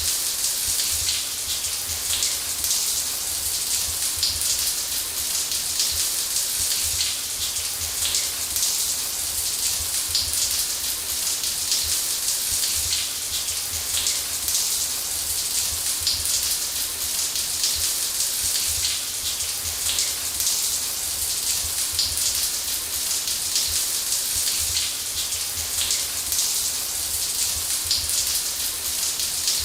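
Shower spray running steadily, water pattering down onto a surface as an even hiss.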